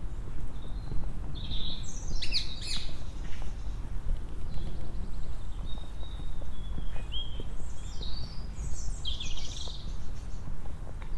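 Wild birds calling: a flurry of high chirps about two seconds in, a thinner call near the middle, and another flurry near the end, over a steady low rumble.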